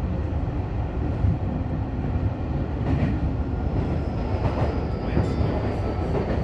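Fukutoshin Line subway train running, heard from the front of the train: a steady low rumble of wheels on rail with a few sharp clicks, and a faint high whine falling in pitch in the second half.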